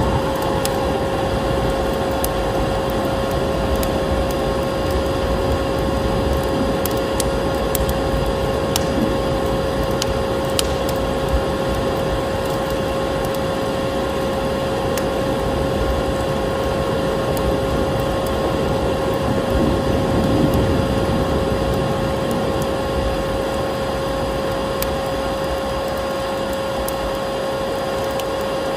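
Vacuum cleaner running steadily with a constant whine and a full rushing hiss, mixed with a wood fire crackling in a fireplace: scattered sharp crackles and pops, a cluster of them between about seven and eleven seconds in.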